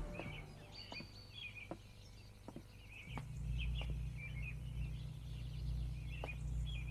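Small birds chirping in short, repeated calls, with a few faint clicks. A low steady hum comes in about three seconds in.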